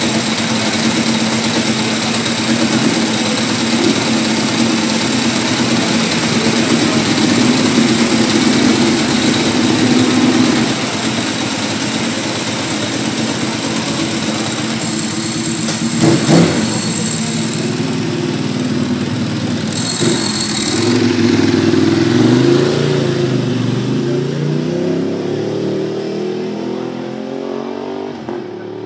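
Ducati 1198R superbike's V-twin engine running hard at racing speed, loud, with rushing noise over it. In the last third the engine pitch climbs and drops again and again through the gears.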